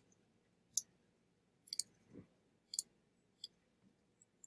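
Computer mouse clicking, a handful of sharp single clicks about a second apart, one a quick double-click.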